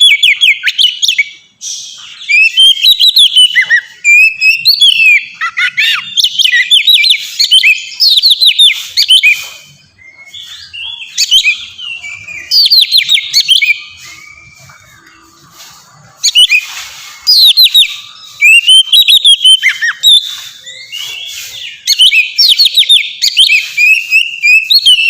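Oriental magpie-robin (kacer) singing its loud, open full song: phrases of quick, high whistled notes and trills, each a few seconds long, with short pauses between and a longer lull about fourteen seconds in.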